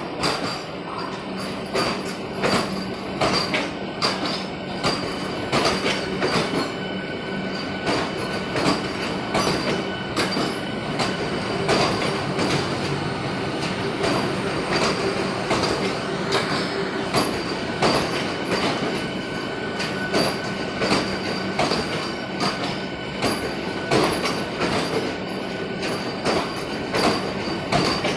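Vande Bharat Express electric train rolling in, its wheels clattering over rail joints in frequent sharp clicks over a steady rumble, with a steady whine held underneath.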